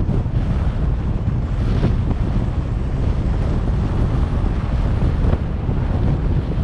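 Wind buffeting the microphone of a moving car, a steady, dense low rumble with a hiss above it.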